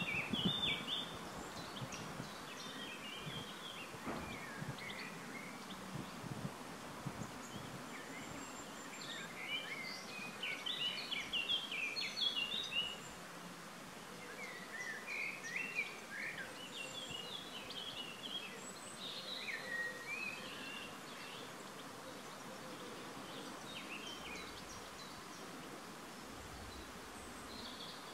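Garden birdsong: small birds chirping and trilling in short phrases over a steady outdoor hiss. The calls are busiest about a third of the way in and grow sparser later.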